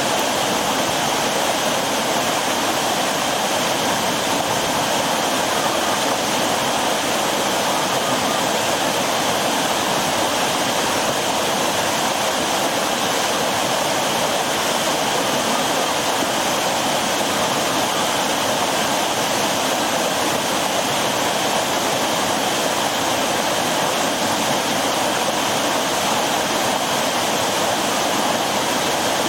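Waterfall and river water rushing steadily over rocks, an even, unbroken roar of falling and flowing water.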